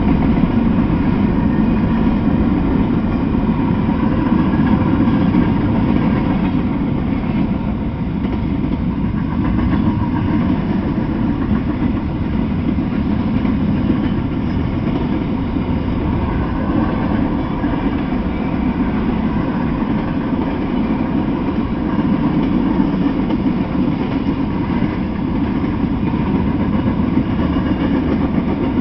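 Freight train of covered hopper cars rolling past: a steady rumble with rapid clatter of steel wheels on the rails.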